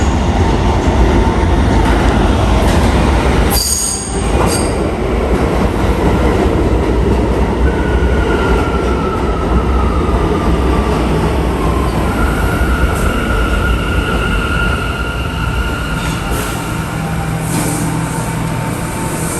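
New York City subway train rumbling over the rails with its wheels squealing, long steady squeals through the middle, and a brief sharp high screech about four seconds in.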